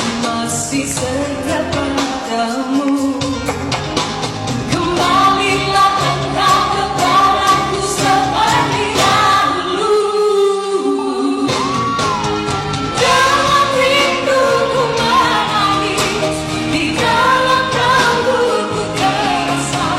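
A woman singing a Malay pop song with band accompaniment, holding long notes that waver in pitch.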